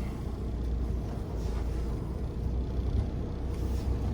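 Car engine running as the car moves slowly, a steady low rumble.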